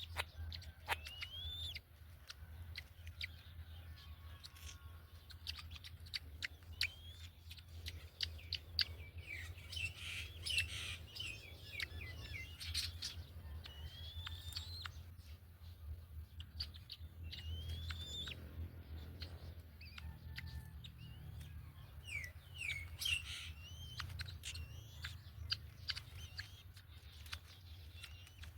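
Birds chirping: short rising whistled calls repeated irregularly, over scattered clicks and a steady low hum.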